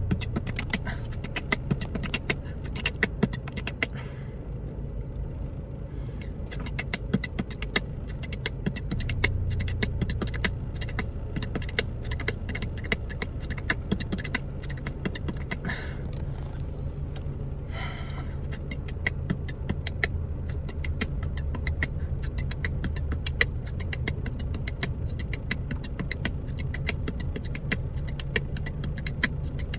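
A person beatboxing, drilling fast combos of sharp clicks and percussive mouth sounds over and over, over the steady low hum of a car running.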